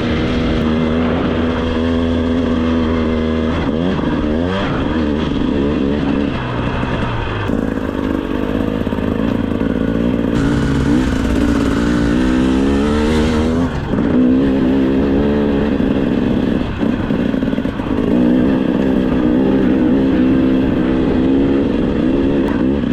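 2025 GasGas EC 300 two-stroke single-cylinder dirt bike engine running as it is ridden on a trail, its revs rising and falling with the throttle.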